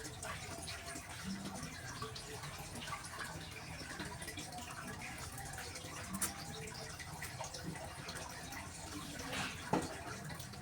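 Close-miked eating of hot instant noodles: small wet mouth sounds of chewing and slurping, with two sharp clicks, one about six seconds in and a louder one near the end.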